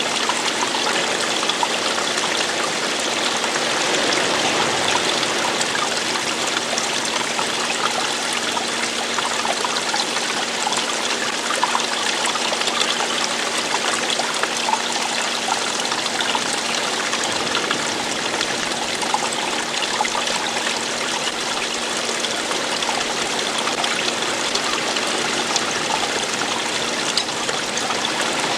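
Running water: a steady rush of a stream or small waterfall, with fine trickling and splashing detail and no breaks.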